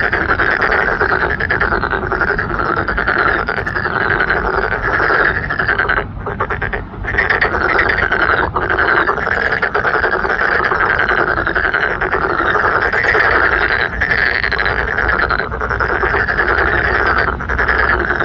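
Many frogs calling at once in a dense, continuous chorus of croaks. The chorus briefly thins about six seconds in.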